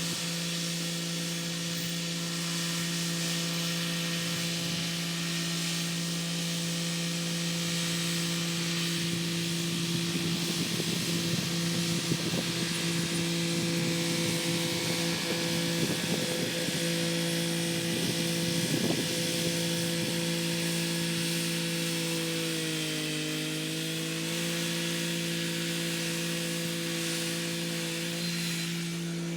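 Kubota SL35 tractor's diesel engine running steadily under load while driving a rotary tiller, with irregular rattling over the middle stretch. About three-quarters of the way through, the engine note dips briefly and recovers.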